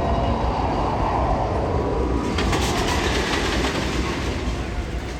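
Steel roller coaster train running along its track, a loud steady rumble of wheels on rail; about halfway through, a brighter rushing hiss with rapid fine clicking joins in.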